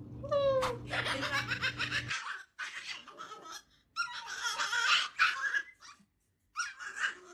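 Laughter in several bursts, each a second or two long with short pauses between, after a short rising call at the very start.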